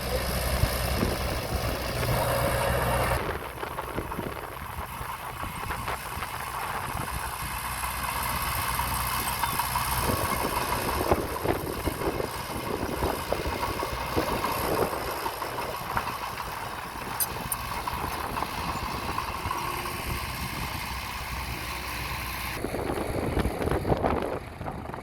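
Diesel engine of earthmoving machinery running, with scattered metallic clanks and a steady whine in the middle stretch; the engine sound changes abruptly about three seconds in and again near the end.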